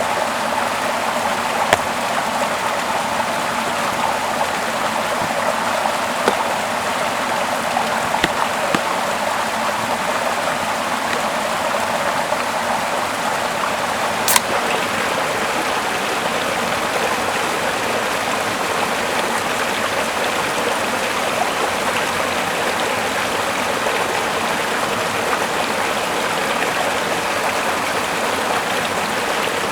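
Small mossy river flowing steadily, a continuous rushing of water. A few sharp clicks stand out, the loudest about halfway through.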